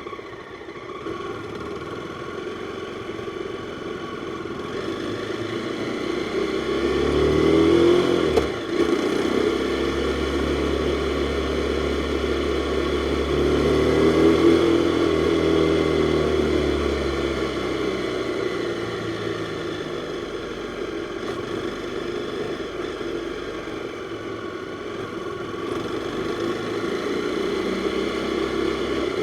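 Jawa 42's single-cylinder four-stroke engine under way, the note climbing as the bike accelerates, with a short break at its loudest point about eight seconds in. It climbs again to a second peak a few seconds later, then eases off and picks up slowly near the end.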